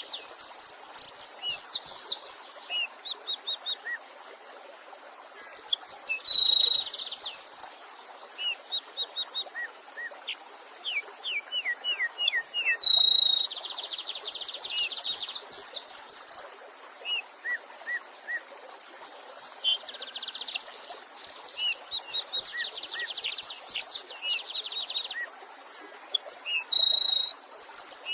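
Songbirds singing in bursts of rapid, high chirping phrases that come again every several seconds, over a faint steady murmur of a stream.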